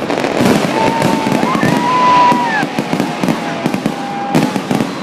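Fireworks display: rapid, overlapping bangs and crackles from bursting shells, loud and continuous. A thin whistling tone is heard for about two seconds in the middle and falls away at its end.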